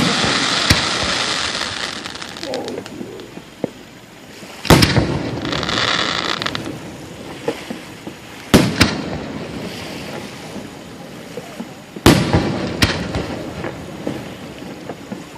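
Aerial fireworks shells bursting. Three loud booms come about four seconds apart, with smaller pops between them, and a crackling fizz follows the first big boom.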